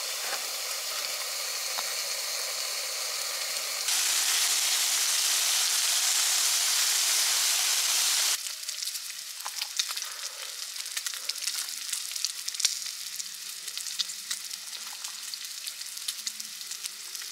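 Chunks of meat sizzling in a frying pan: a steady hiss that jumps louder about four seconds in, then changes about halfway to quieter, irregular spitting crackles as the pieces are turned with chopsticks.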